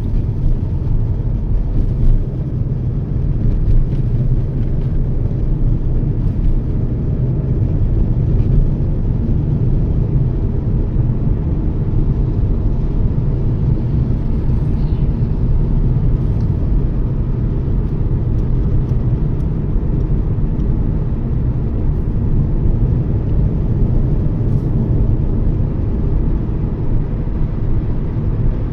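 Steady low rumble of a Toyota Yaris cruising: road and engine noise from a car under way.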